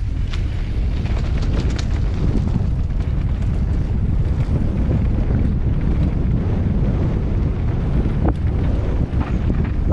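Wind buffeting the microphone of a camera on a mountain bike riding along a trail: a steady, loud low rumble with scattered small knocks and rattles from the bike and trail.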